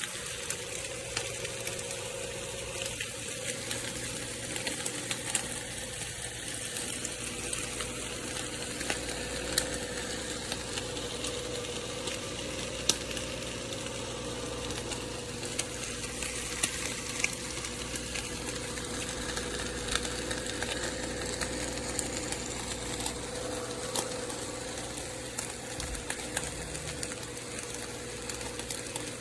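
Nespresso Vertuo Next capsule coffee machine running through a brew: a steady mechanical hum with a hiss and scattered small clicks.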